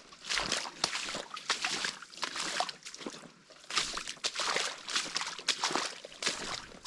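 A hiker's footsteps on a trail, coming in a steady walking rhythm, each step a short crunching scuff.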